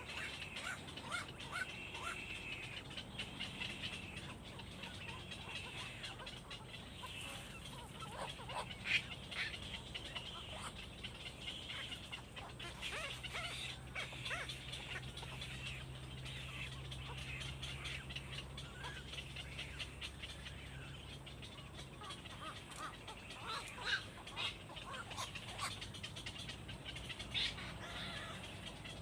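Birds chirping: many short, high chirps, with a few louder ones near the end. A faint low hum runs under them through the middle stretch.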